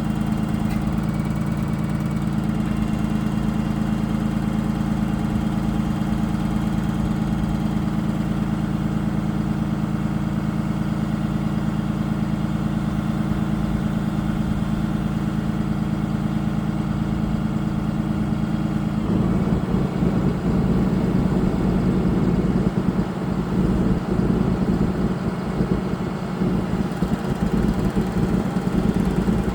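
2014 Freightliner bucket truck's diesel engine idling steadily. About two-thirds of the way through, the sound turns rougher and a little louder.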